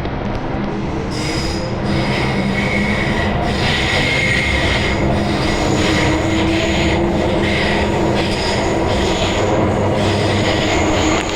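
An MTR Island Line M-train running through a tunnel with a steady rumble and hum. High-pitched wheel squeal starts about a second in and carries on.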